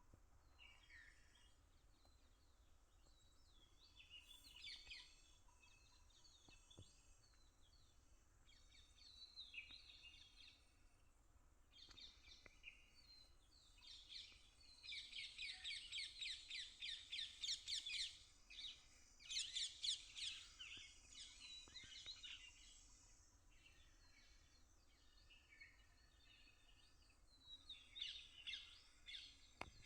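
Small birds chirping and twittering in short high calls. About halfway through come two fast runs of rapidly repeated notes, the loudest part.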